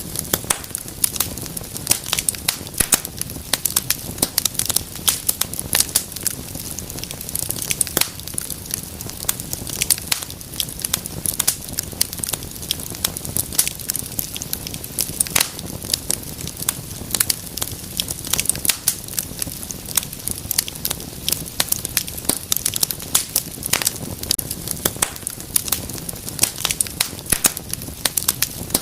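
Wood fire crackling, with a dense, irregular stream of sharp snaps and pops over a low, steady rumble of the flames.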